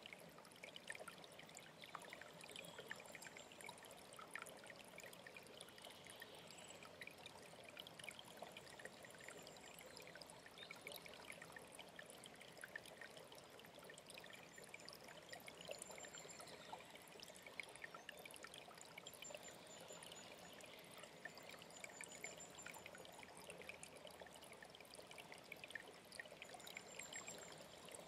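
Faint trickling and splashing of a small stream, with short, high, thin bird calls now and then over it.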